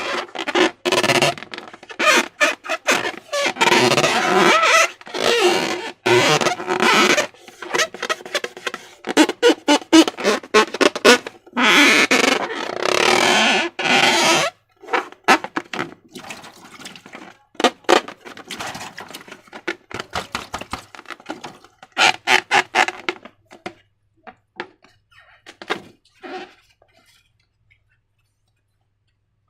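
Slime being squeezed and worked by hand: a dense run of sticky squelches and crackles that thins to scattered clicks and stops near the end.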